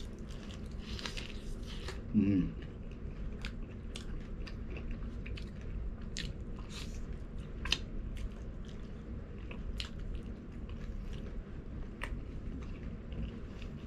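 Close-up crunching bites and chewing of KFC crispy fried chicken, the breading giving scattered sharp crackles throughout. A short vocal sound from the eater comes about two seconds in.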